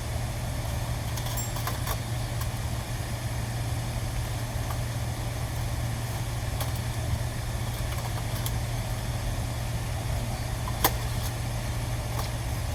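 Steady low machine hum with a few light clicks, the sharpest about eleven seconds in.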